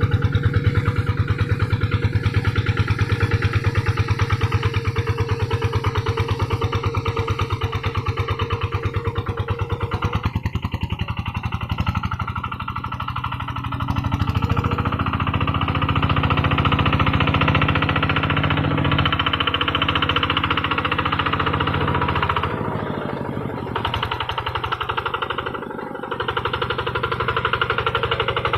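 Kubota RD110 single-cylinder diesel engine on a two-wheel hand tractor, running steadily while pulling a moldboard plow through a rice paddy. Its level dips and picks up again a couple of times.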